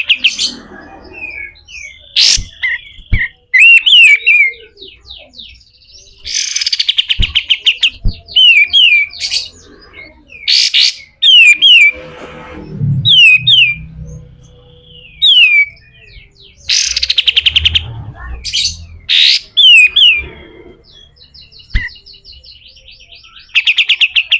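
Kapas tembak (katem) songbird singing its harsh 'besetan kasar' song. Quick down-slurred whistles are repeated in runs, broken up by several loud, grating rattles.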